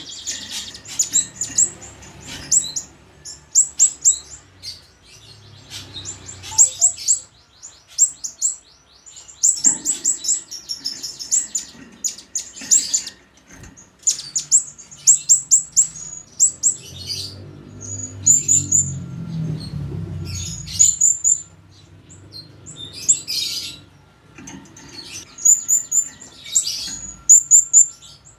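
Caged songbirds chirping and trilling in quick runs of high notes, several birds calling over one another. A low rumble rises and fades for a few seconds past the middle.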